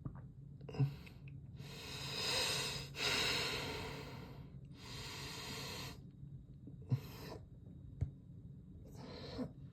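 A man breathing audibly close to the microphone: a few long breaths in and out, the longest from about one and a half to four and a half seconds in, with a couple of small clicks between them.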